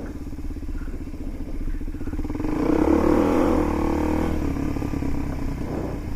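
Motorcycle engine running, revving up about two and a half seconds in and easing back off after about four seconds.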